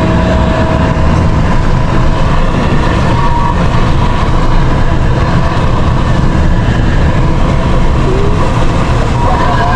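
A vehicle driving, with steady engine and road noise.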